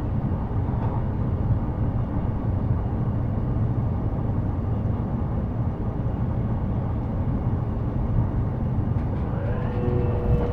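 Interior running sound of an E233-series electric train: a steady low rumble and rush of wheels on rail. Near the end, a whine of several pitched tones from the traction motors sets in, gliding and then holding steady.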